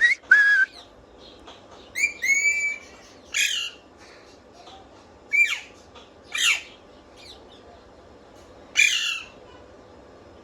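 Pet parrot whistling and squawking in short separate calls, about seven of them: a few clear whistled notes, the longest about a second in length, and several quick calls that sweep down in pitch.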